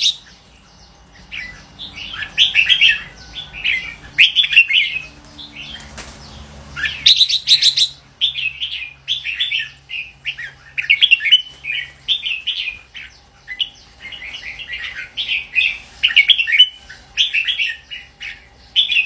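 Red-whiskered bulbul singing: short, bright warbled phrases repeated every second or so, with a brief lull about five seconds in.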